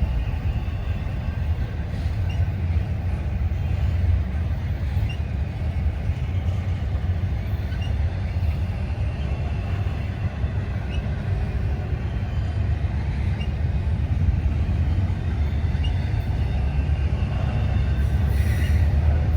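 Freight train running past, a steady low rumble.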